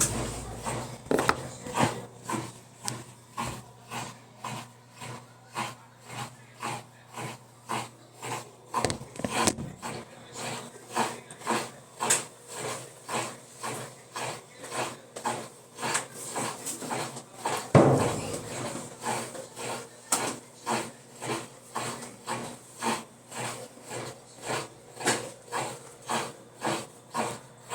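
Electrolux LTE12 washing machine running, with an even rubbing knock about one and a half times a second and one louder knock about 18 seconds in: the strange noise it makes in the spin cycle.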